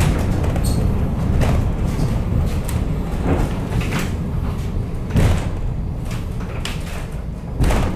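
Centovalli Railway metre-gauge electric train running, heard from inside the carriage: a steady low rumble with sharp knocks and rattles, the loudest about five seconds in and just before the end.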